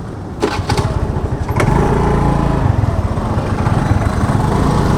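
A few sharp clicks, then a scooter engine running, growing louder about a second and a half in and holding steady.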